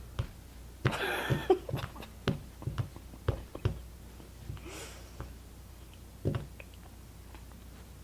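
A short muffled voice sound, then a scatter of small clicks and knocks from handling things at a table, with a soft breath-like puff and one more knock later.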